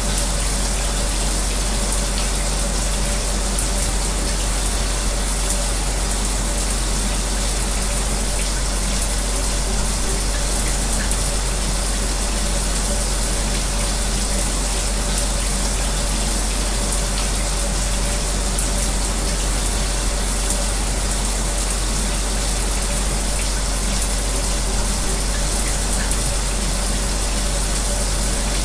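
Shower spray running steadily, blended with the constant hum and whoosh of an electric fan, with a deep low rumble underneath.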